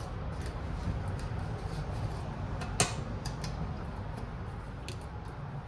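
A screwdriver working at the lid of a can of body filler: a few scattered sharp clicks, the loudest about three seconds in, over a steady low hum.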